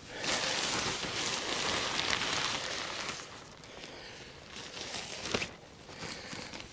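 Rustling and handling noise lasting about three seconds, then quieter, with a single sharp click about five seconds in and more rustling near the end.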